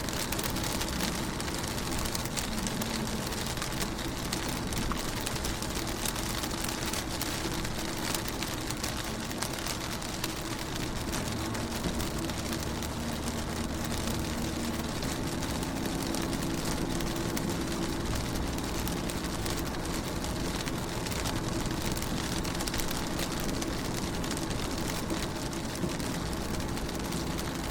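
Rain falling on a car window, a steady hiss of many small drop taps. A low steady hum runs underneath.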